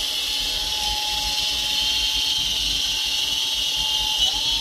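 Small electric RC helicopter's motor and rotor blades whining steadily in flight, the whine's pitch rising a little near the end.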